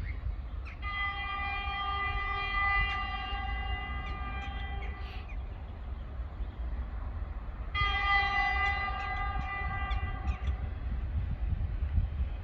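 2ES5K electric locomotive sounding its horn twice: two long, steady-pitched blasts, the first about four seconds, the second about three, over a low rumble.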